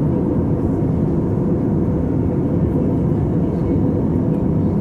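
Steady low rumble of an Airbus A320's engines and rushing air, heard inside the passenger cabin in flight, with a faint steady hum.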